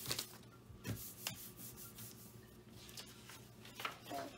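A sheet of paper being folded and creased by hand, a few short rustles and rubs of paper.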